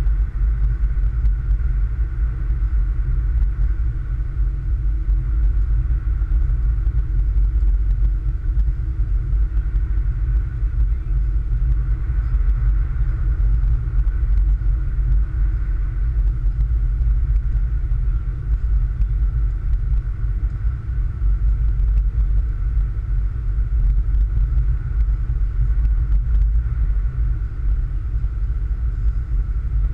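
Car driving along a snow-covered road: a steady low rumble of engine and tyres, with a faint steady hum above it.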